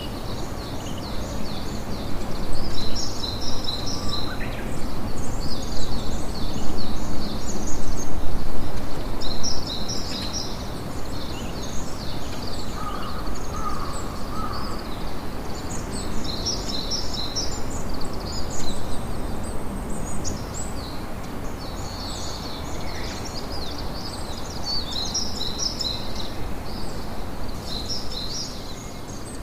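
Campfire crackling steadily, with small birds chirping high-pitched on and off over it.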